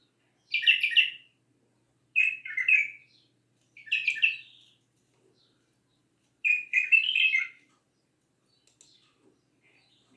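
A bulbul singing four short, warbled phrases with pauses between them, followed by a few faint chirps near the end.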